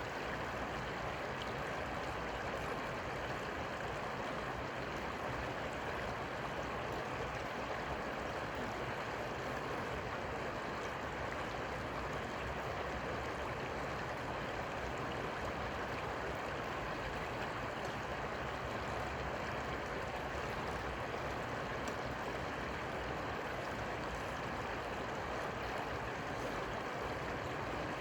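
Steady rushing of flowing river water, an even noise with no breaks or distinct events.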